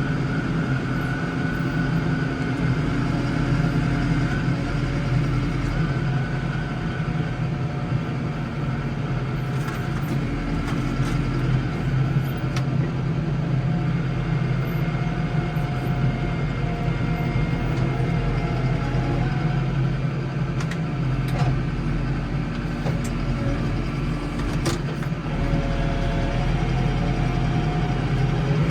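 Case 115U garden tractor's engine running steadily under load while plowing snow, its pitch shifting slightly now and then.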